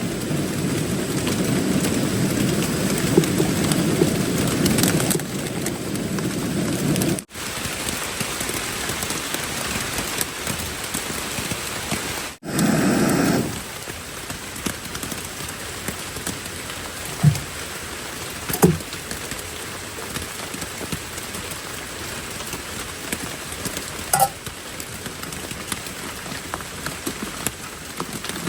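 Heavy rain falling steadily, with a few sharp louder taps of drops standing out in the second half.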